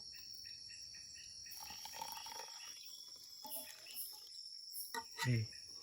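Night-time forest insects: a steady high-pitched drone with rhythmic chirping in the first second or so, and a short low sound about five seconds in.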